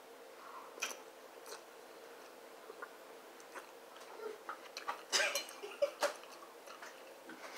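A person chewing a mouthful of spicy chicken ramen noodles, with soft wet mouth clicks and a couple of louder smacking sounds about five and six seconds in.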